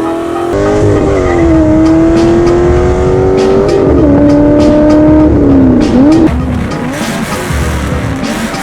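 A car driven hard: a loud, sustained wail that glides up and down in pitch, breaking off and restarting a few times, over music with a steady beat.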